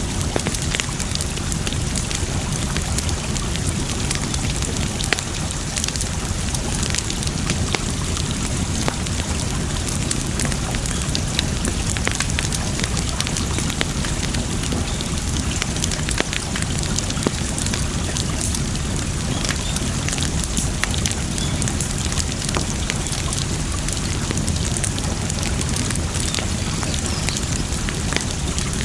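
Campfire crackling and popping, with many sharp snaps scattered through it, over a steady rush of flowing water.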